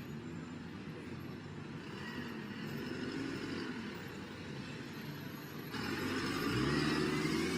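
Car engine running as the car drives along, its pitch wavering up and down. It gets louder about six seconds in.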